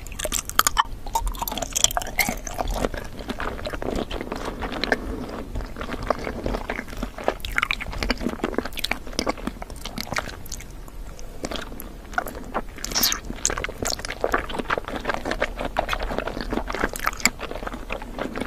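Close-miked eating sounds of someone biting into and chewing translucent rainbow jelly pops, with many sharp clicks and crackles in quick succession.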